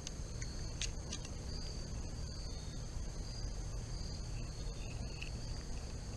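Steady insect chorus, a continuous high trill with a slight pulse, over a low steady rumble.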